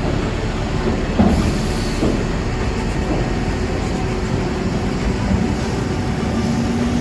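Heavy machinery at a street paving job rumbling steadily, with a couple of short knocks about a second and two seconds in.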